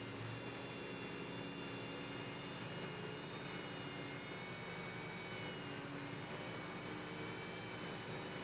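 Power sander running steadily with a whine that wavers slightly in pitch, wet-sanding a headlight lens with diamond pads.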